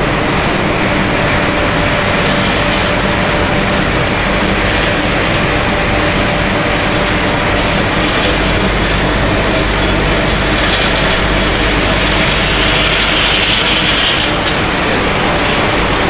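Steady mechanical running noise of a snack-chip production line's machinery, an even, unbroken din with a faint steady tone in it.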